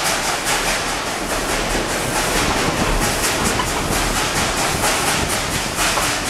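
Tweetsie Railroad's narrow-gauge steam train running on the track, a steady, evenly repeating rhythm of locomotive chuffs and rail clatter with some steam hiss.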